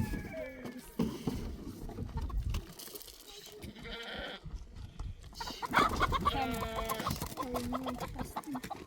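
Livestock calling: goats bleating and a chicken clucking. The loudest is a long, wavering call about six seconds in.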